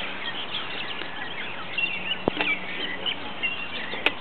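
Many birds chirping and calling at once, with short rising and falling calls one over another. A single dull thud comes a little over two seconds in and a sharp click near the end.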